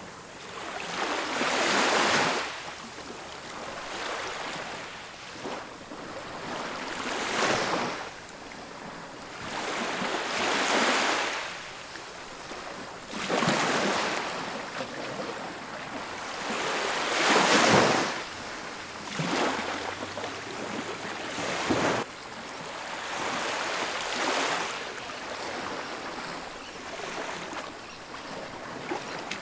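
Ocean waves breaking on a beach, a new surge washing in every few seconds, the loudest about halfway through.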